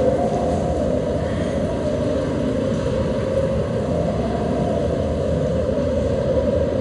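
A steady low rumble of noise, unbroken throughout; it is a stage storm sound effect.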